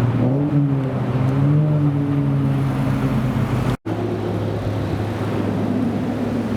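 Supercar engine running near idle, its pitch rising and falling slightly with light throttle. The sound cuts out for an instant a little over halfway through, then the engine carries on steadily at idle.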